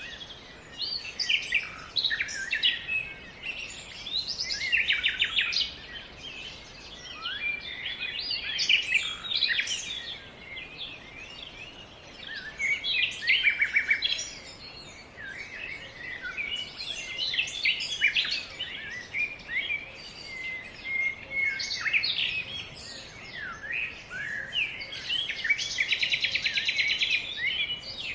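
Several songbirds singing and chirping at once in a dense, continuous chorus of quick high notes, with a fast buzzy trill near the end.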